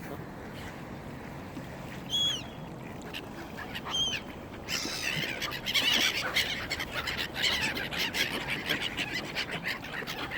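A flock of waterbirds calling while being fed: two single high calls, then from about five seconds in a dense chorus of many overlapping squealing calls.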